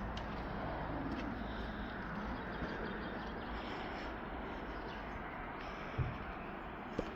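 Steady mechanical running noise, with two short knocks about six and seven seconds in.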